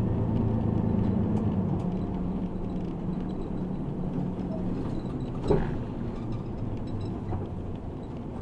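Bus engine and road rumble heard from inside the cabin, the engine's hum easing after the first few seconds, with small rattles and one sharp knock about five and a half seconds in.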